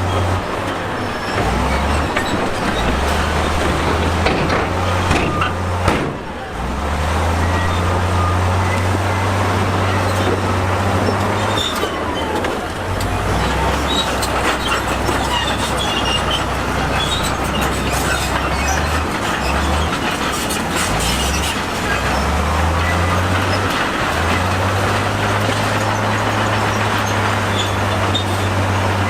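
Large diesel engine of a bulldozer or dump truck working steadily, its low hum shifting up and down in pitch a few times as the load changes, with scattered small clanks.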